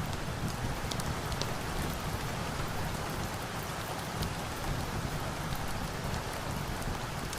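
Steady rain falling: a dense, even hiss with scattered sharp ticks of drops and a low rumble underneath.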